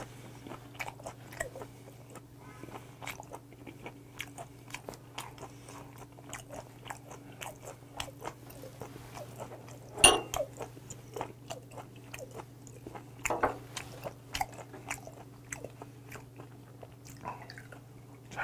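A person chewing slices of raw mullet sashimi, close to the microphone: a run of small wet mouth clicks, with one louder click about ten seconds in. Near the end, soju is poured from a glass bottle into a shot glass.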